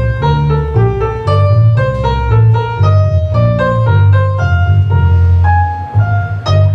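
Live baroque instrumental music: a quick succession of melody notes, several a second, over a held low bass line. There is a short sharp click near the end.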